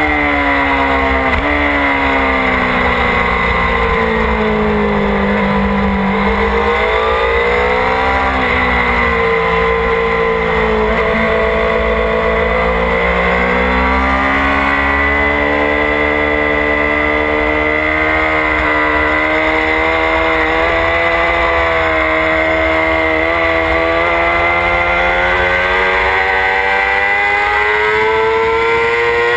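Motorcycle engine heard from on board: its pitch falls over the first several seconds, with a couple of sudden steps, then climbs steadily through the second half as the bike accelerates. Wind rumble on the camera microphone runs underneath.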